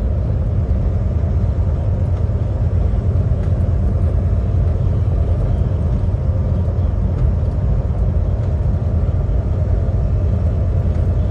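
A semi-truck driving on the highway: a steady, loud low rumble of engine and road noise.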